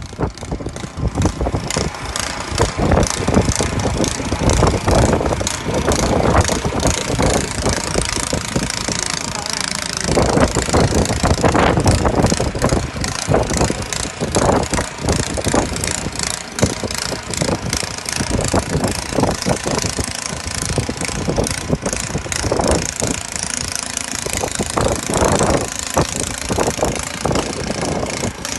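Snow blower engine running, with an irregular clatter.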